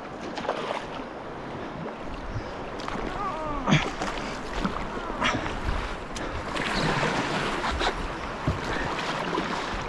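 River water rushing through a riffle, with splashes and knocks from paddling a canoe or kayak and wind on the microphone. The rush swells for a second or two after about six and a half seconds.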